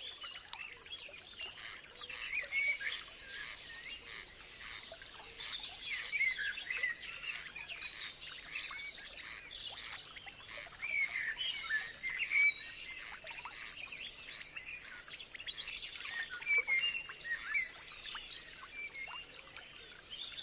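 Several birds chirping and singing together in quick, overlapping calls, over a steady high-pitched tone.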